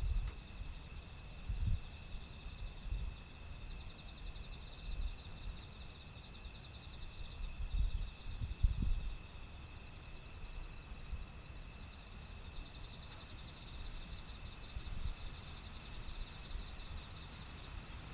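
Insects trilling: a fast pulsing high trill that comes and goes in two long spells. Under it a low rumble of wind on the microphone, with a few stronger gusts.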